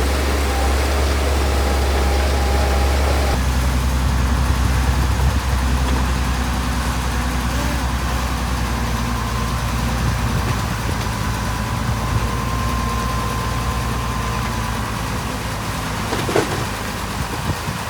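Heavy earthmoving machine's diesel engine running steadily, its low drone shifting in pitch a few seconds in.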